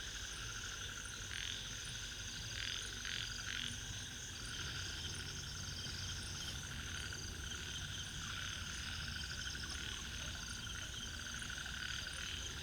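A chorus of ornate narrow-mouthed frogs (Microhyla ornata) calling: many short, rapidly pulsed calls overlapping one another, over a steady high hum.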